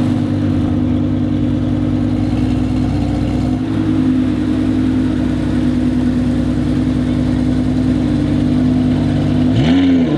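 Lamborghini Urus twin-turbo V8 idling steadily, with one quick rev blip that rises and falls near the end.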